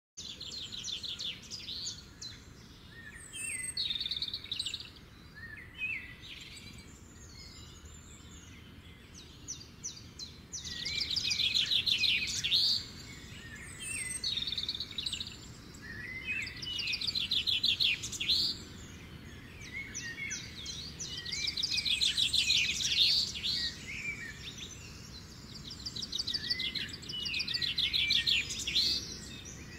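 Songbirds singing: fast, high trills and chirps in phrases a second or two long, repeating every few seconds, loudest around the middle and toward the end.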